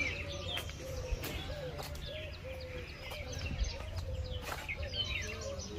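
Several birds chirping and calling over one another in short, quick notes, over a steady low rumble.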